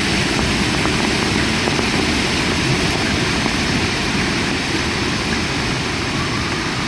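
Heavy rain pouring steadily, a dense, even hiss over a low rumble, getting slightly quieter toward the end.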